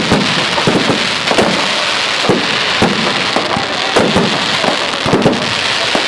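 Fireworks and firecrackers going off without pause: a dense, continuous crackle studded with frequent sharp bangs.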